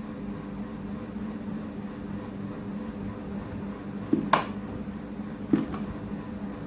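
Steady low hum with three sharp clicks or knocks: one about four seconds in, then two close together about a second and a half later, typical of parts and tools being handled during a teardown.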